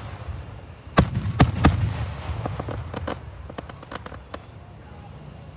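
Aerial fireworks shells bursting: three loud booms in quick succession about a second in, with a low rumble after them, then a scatter of smaller crackling pops that fade out.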